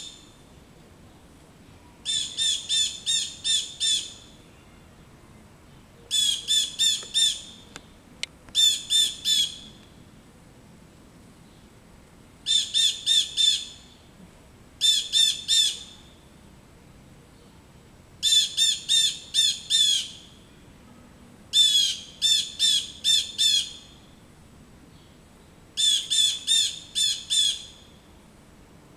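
A bird calling in runs of five or six short, clear, high notes, about eight runs spaced two to four seconds apart.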